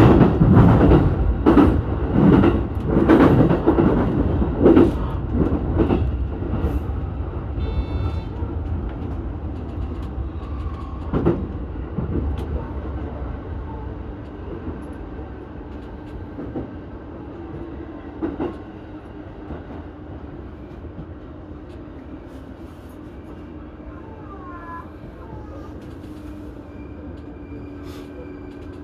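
E233-series electric commuter train heard from aboard as it slows into a station: its wheels clatter over rail joints and points, loud at first, then fading and spacing out as it slows, leaving a steady low hum.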